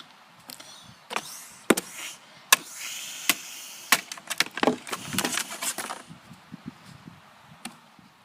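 An irregular run of sharp knocks and clicks, with a short hiss about three seconds in.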